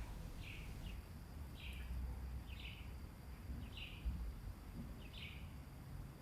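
A bird calling over and over: a short, high chirp repeated about once a second, with a low rumble underneath.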